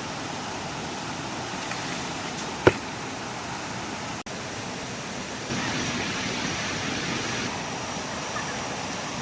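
Steady rush of flowing stream water, with one sharp knock a little under a third of the way in and a louder stretch of rushing for about two seconds past the middle.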